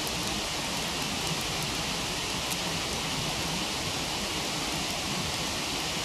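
Waterfall rushing steadily, with a few faint, sharp crackles from the wood fire.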